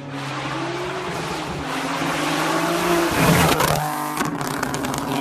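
Turbocharged Golf R32 MK4 3.2-litre VR6 engine revving: a steady engine note climbs and swings in pitch about three seconds in, then a rapid string of exhaust pops and crackles follows.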